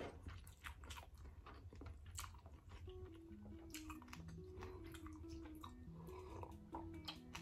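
Close-miked chewing and mouth clicks, then sips from a mug in the second half. A quiet melody of background music comes in about three seconds in, over a low steady hum.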